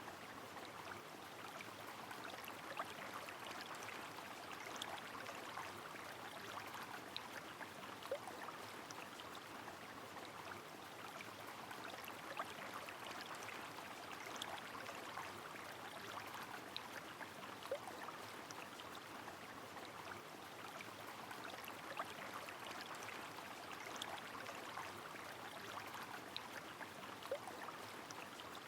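Steady rushing of a flowing river with rain falling, the even wash broken by small scattered ticks of drops.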